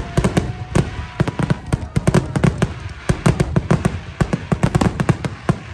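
Fireworks going off in quick succession: a dense run of sharp bangs and crackles, several a second, stopping near the end.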